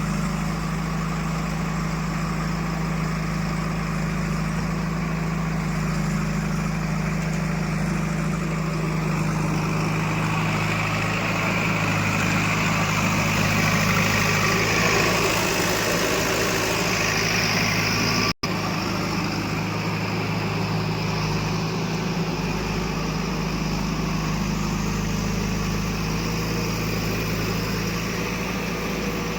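Diesel engine of a backhoe loader or tractor running steadily, with a higher whine that swells in the middle and eases off. The sound cuts out for an instant about two-thirds through.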